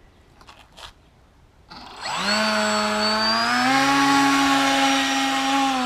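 RC airplane's battery-powered electric motor and propeller spinning up about two seconds in: a whine that rises quickly in pitch, steps up a little more a couple of seconds later, then runs steadily at high power.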